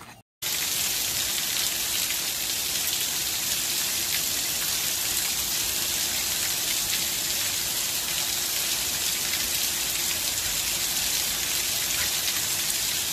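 Heavy rain pouring down steadily. It starts abruptly about half a second in.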